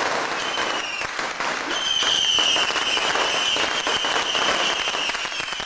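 Strings of firecrackers crackling continuously in a dense rapid patter. A high, steady held tone joins about two seconds in and sinks slightly in pitch.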